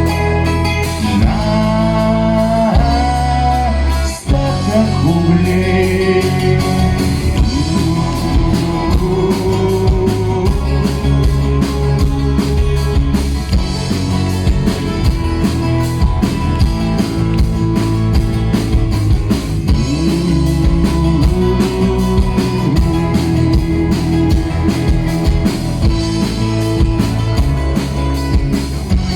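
Live band music with no words: guitars over a steady drum beat, with a melody line gliding above them.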